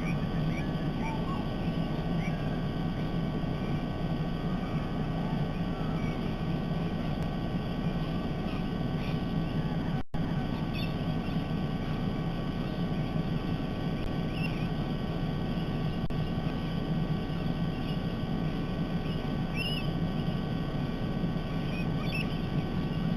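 Steady low rumble of outdoor background noise with scattered short, faint bird chirps over it; the sound drops out for an instant about ten seconds in.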